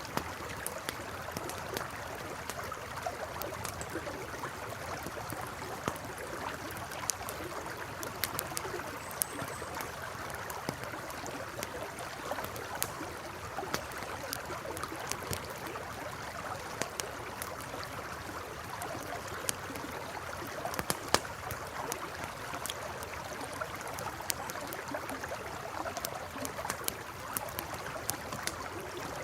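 A river flowing steadily, with a campfire crackling over it: frequent small sharp pops and snaps, one louder pop about 21 seconds in.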